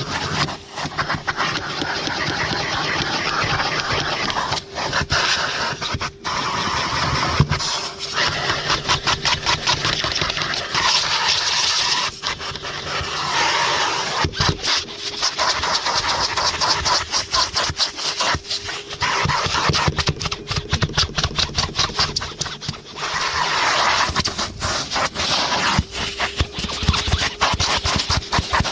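Numatic Henry HVR200-22 vacuum cleaner running with a steady motor hum, its nozzle scraping and rattling against the car's interior in runs of rapid clicks.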